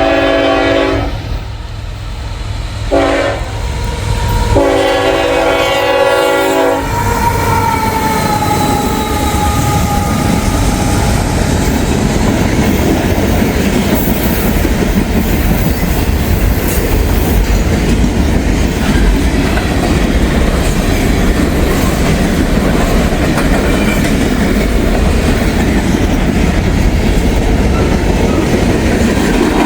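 CSX freight train's locomotive horn sounding a long, short, long pattern, the grade-crossing signal, ending about seven seconds in. The train then rolls past close by, a steady loud rumble of locomotives and freight cars with wheels clacking over the rail joints.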